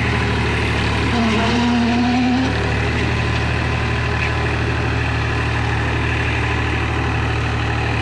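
Powertrac ALT 4000 tractor's diesel engine running steadily with a deep, even hum. A short higher-pitched tone sounds briefly about a second in.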